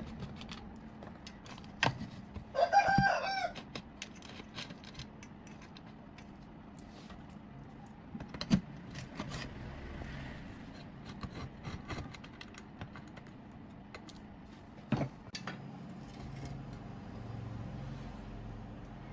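A rooster crows once, briefly, about two and a half seconds in, over scattered light clicks and a few sharper knocks.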